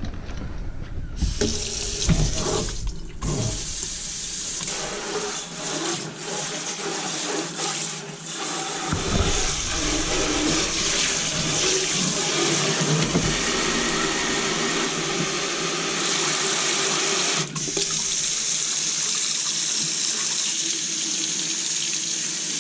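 Kitchen faucet running, filling a double-bowl sink with water: a steady rush of water that grows heavier from about nine seconds in. The bowls are being filled to test the new garbage disposal and dishwasher drain for leaks.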